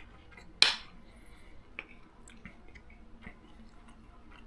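A single sharp clack a little over half a second in, then a few faint small clicks over a quiet room.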